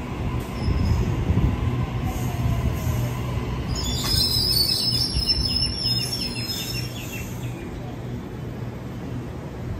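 Double-deck electric suburban train rolling into the platform and slowing, its wheels rumbling on the rails. About four seconds in a high metallic squeal with chirping squeaks sounds for about three seconds as it comes to a stop, leaving a steadier, quieter rumble.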